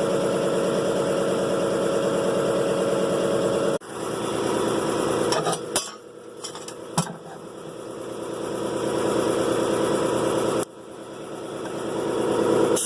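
A motor-driven machine running with a steady hum. It cuts off abruptly about four seconds in and again near eleven seconds, each time building back up gradually, with a few sharp clicks in the middle.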